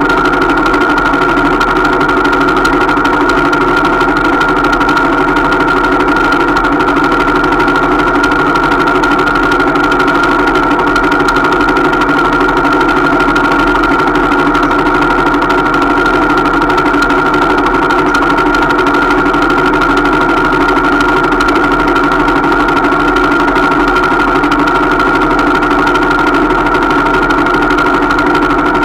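Small 125cc motorcycle engine idling steadily at an even pitch.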